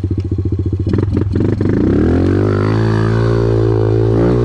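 Small single-cylinder dirt bike engine ticking over in even pulses, a few clicks about a second in, then revving up in a rising note and holding at high revs under full throttle up a steep hill.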